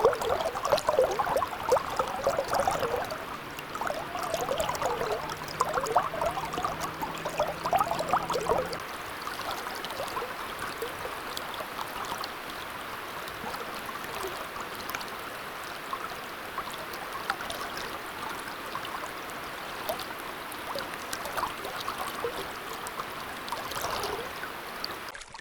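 River water flowing and gurgling steadily, busier and louder over the first nine seconds or so, then an even rush.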